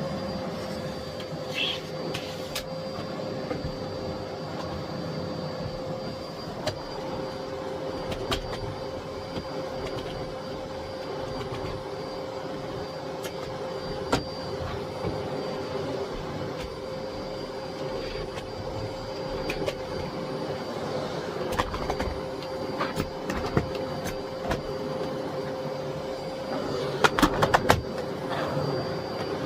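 Miele Blizzard CX1 bagless cylinder vacuum cleaner running steadily, a constant motor hum with a high whine, while the floor head picks up debris with scattered clicks and knocks, a quick cluster of them near the end.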